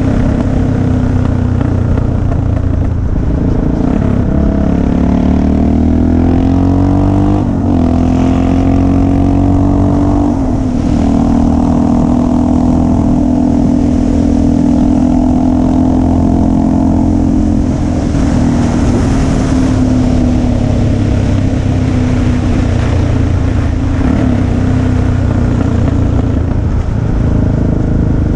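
Motorcycle engine under way, its pitch climbing as it accelerates up through two gear changes about 7 and 10 seconds in. It then holds a steady cruise and eases off slightly past the middle.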